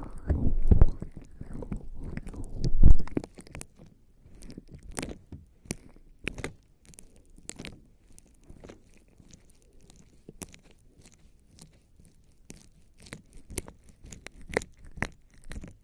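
Bare skin coated in lubricating jelly rubbing and scratching right against the microphone. For the first three or so seconds there are loud, low rubbing thuds, then sticky, wet-sounding crackles and clicks come at scattered moments.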